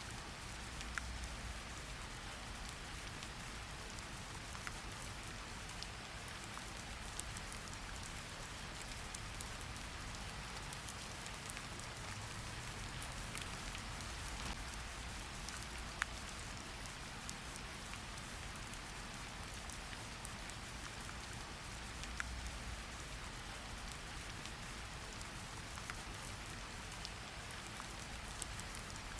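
Steady rain falling: a continuous even hiss with scattered sharp ticks of single drops striking, one louder tick about halfway through.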